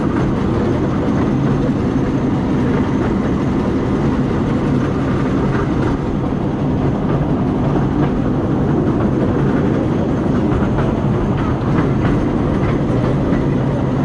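Narrow-gauge park railway train running along the track, heard from an open carriage: a steady rumble and rattle of the carriages on the rails.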